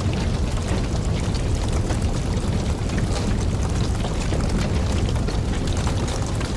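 Wood campfire burning: a steady low rush of flames with frequent small crackles and pops from the burning logs.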